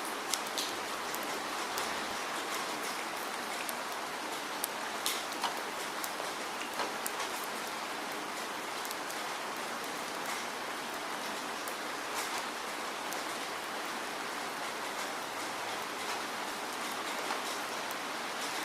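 Steady rain falling, with individual drops ticking sharply now and then, a handful of them in the first several seconds.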